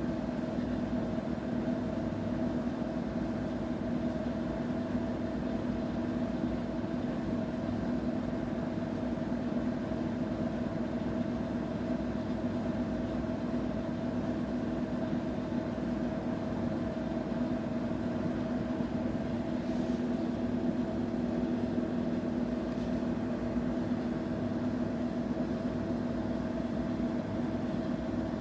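Washing machine running with a steady motor hum whose pitch holds constant, without pauses.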